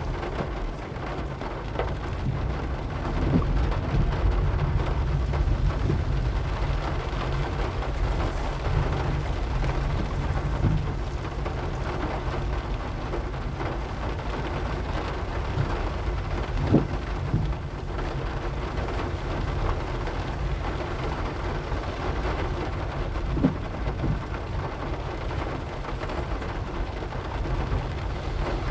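Steady rain noise over the low rumble of a car driving in heavy rain, with two short sharp knocks, one a little past halfway and one near the end.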